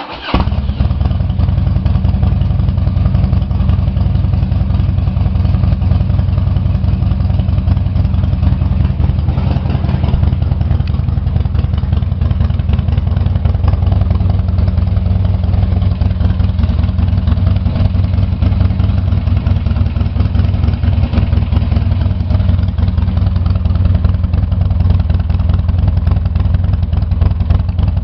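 2003 Harley-Davidson Dyna Wide Glide's Twin Cam 88 V-twin cold-started on choke: it fires almost at once and settles into a steady idle with a deep rumble.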